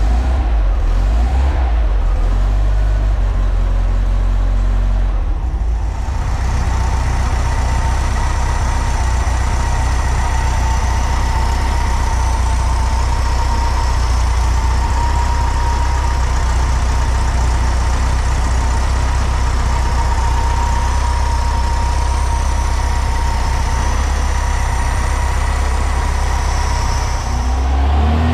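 Newly built 1600cc air-cooled VW flat-four engine running steadily on a test stand, a low, even engine note. About six seconds in, a steady high whine joins it.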